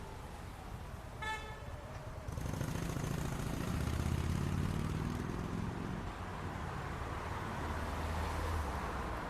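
City street traffic: a single short car horn toot about a second in, then a vehicle's engine rumbling past, louder from about two seconds in and fading near the end.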